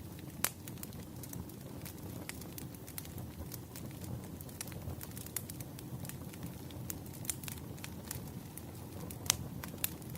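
Burning firewood crackling: a steady low hiss of flames with many small irregular pops and snaps, a few louder ones about half a second in and near the end.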